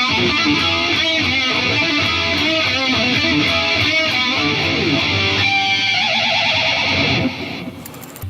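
Electric guitar played through an Atomic AmpliFire modeling pedal and heard through cheap computer speakers: a run of quick notes, then a held note wavering in pitch. The sound drops off sharply a little after seven seconds in.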